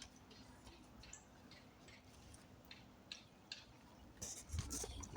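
Faint, irregular small clicks and ticks, with a louder bump and rustle about four and a half seconds in.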